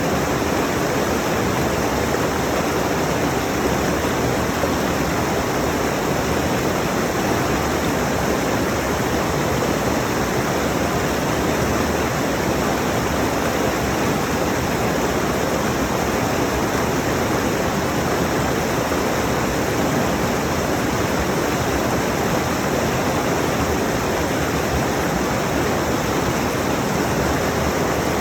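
Rushing mountain stream: water running fast over rocks in a steady, unbroken loud rush, heard close up.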